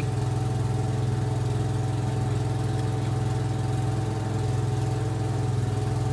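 Ford 7.8L diesel engine idling steadily, an even low-pitched running note with a fine regular pulse.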